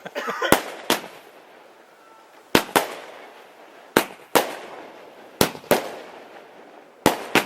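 Fireworks going off: sharp bangs that come in pairs, about ten bangs in all, a pair every second and a half or so.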